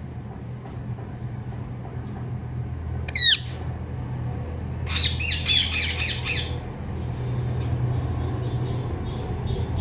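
Female Indian ringneck parrot calling: one very loud, sharp squawk about three seconds in, then a quick run of high chirps a couple of seconds later. A steady low hum runs underneath.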